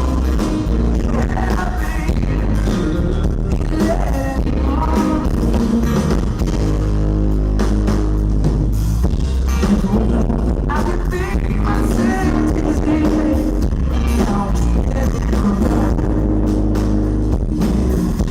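Live pop-rock band playing through a club PA, recorded from the audience, with heavy, boomy bass under guitars and drums.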